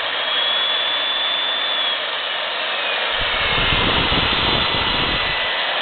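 Milwaukee 4210-1 electromagnetic drill press motor running unloaded in reverse, its whine dropping in pitch about two seconds in as the variable speed control is turned down, then holding steady. A low rumble comes in about three seconds in and lasts about two seconds.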